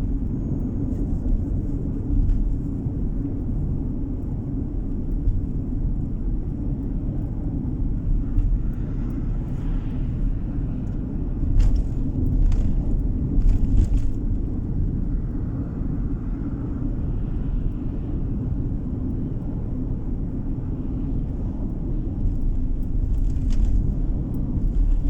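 Steady low rumble of a car driving along the road, road and engine noise heard from inside the cabin, with a few light clicks about halfway through.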